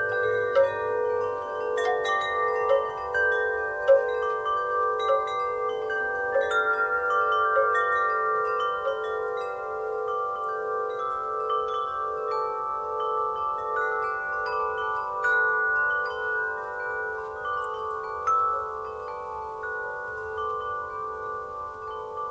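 Wind chimes ringing in a breeze, struck at irregular moments so that many clear tones overlap and ring on. The lowest tone throbs steadily underneath.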